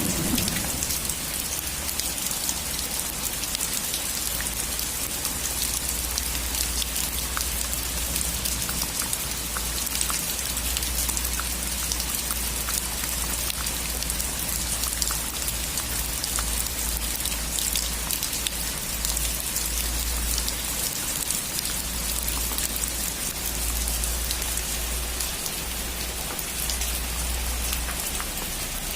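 Steady heavy rain falling on a roof, a constant hiss dotted with the ticks of single drops. A thunder rumble dies away in the first moment.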